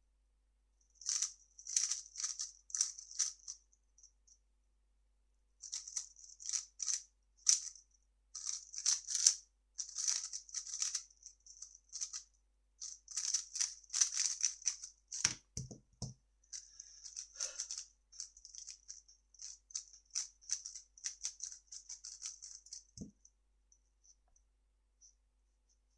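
3x3 speedcube turned fast by hand: rapid bursts of plastic clicking and clacking as the layers snap past each other, with a short pause about four seconds in. A couple of low thumps come a little past the middle, and the turning stops near the end.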